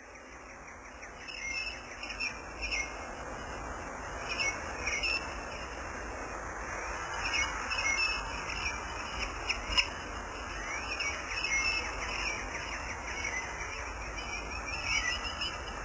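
Birds chirping over a steady hiss of insect-like noise, fading in at the start.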